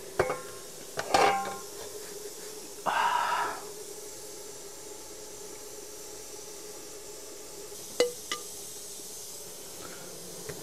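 Carrots, onion and beef frying in oil in a kazan, a steady faint sizzle. A few sharp clinks of a metal utensil against the pot, one ringing briefly about a second in, and a short scrape of stirring about three seconds in.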